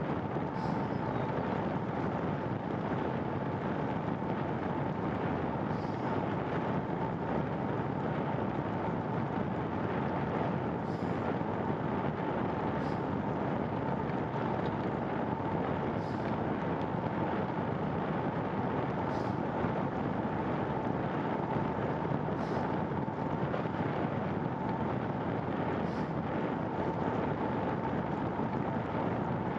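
Steady rushing wind and road noise from a bicycle ride, with faint high clicks every few seconds.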